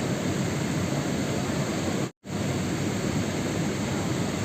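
Steady rain as a dense, even hiss, dropping out to silence for a split second about two seconds in.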